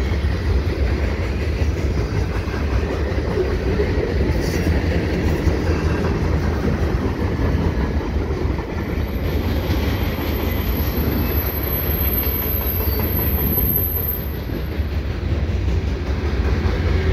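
Freight cars of a CN mixed freight train rolling past at speed: a steady rumble and clatter of steel wheels on rail, with wind buffeting the microphone. A thin, high-pitched squeal comes in about nine seconds in and lasts about five seconds.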